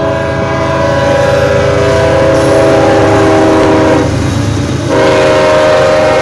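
BNSF freight locomotive's air horn blowing a chord of several tones, one long blast that breaks off about four seconds in and a second that starts again a second later, over the low rumble of the passing train.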